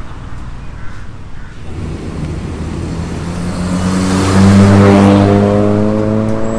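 Honda Civic FB's 1.8 i-VTEC four-cylinder engine through a new full stainless steel exhaust and custom downpipe, accelerating past. The exhaust note climbs steadily in pitch and is loudest about four to five seconds in.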